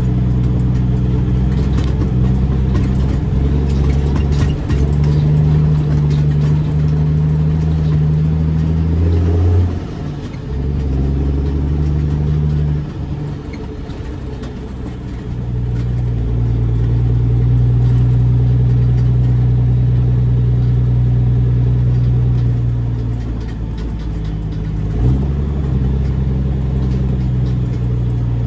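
Kenworth W900B dump truck's straight-piped Caterpillar C13 diesel running while the truck is driven. It holds steady revs, and the note drops away and comes back at a new pitch several times, around ten, thirteen and twenty-four seconds in.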